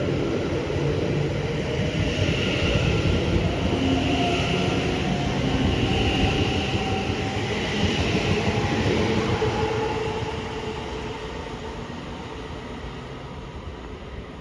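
A train running through on the rails, a steady rumble with faint tones, fading away over the last few seconds as it goes off into the distance.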